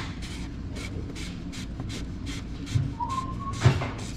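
Light clicks and taps, about three a second, over a low steady shop rumble, from work on fitting a car's oil filter; a brief thin tone sounds about three seconds in.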